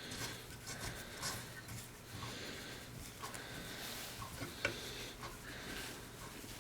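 Faint, sparse light clicks of a steel screw being turned by hand into a freshly tapped hole in the lathe's cross slide, over a low steady hum.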